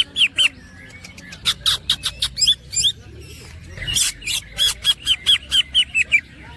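Green leafbird (cucak ijo) singing: rapid runs of sharp chirps and downward-slurred whistled notes, in two bursts with a short pause between.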